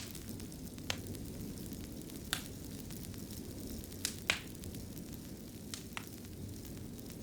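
Wood fire burning in a fireplace, a steady low rumble of flame broken by sharp pops and crackles, about six in all, the loudest just after the middle.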